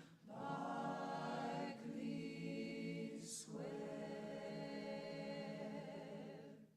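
An a cappella vocal group singing held notes in harmony, with brief breaks between phrases, ending on a long final chord that fades out near the end.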